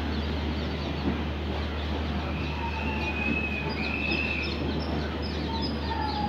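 Passenger train coaches rolling slowly past a station platform: a steady rumble with a low hum underneath, and a few short high-pitched squeals from about two and a half seconds in.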